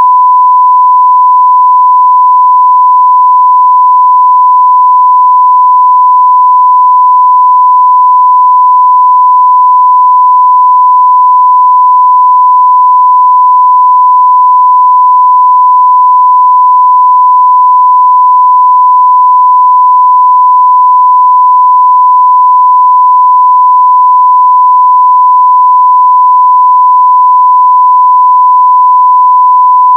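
Continuous 1 kHz sine-wave test tone at near full-scale level, a steady unbroken pure beep.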